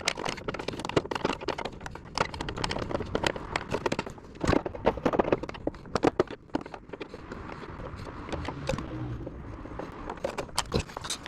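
Irregular clicks, clinks and knocks of hand tools and metal parts being handled.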